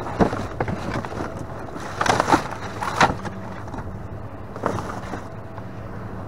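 Plastic lids and trash knocking, scraping and rustling as someone rummages through a dumpster, with louder clatters about two, three and nearly five seconds in, over a steady low hum.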